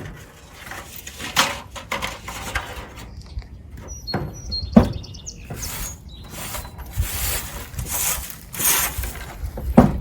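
Scattered knocks and rustling of work on a wooden chicken coop, with two sharp bangs about five seconds apart, the first the loudest. A few brief high chirps come just before the first bang.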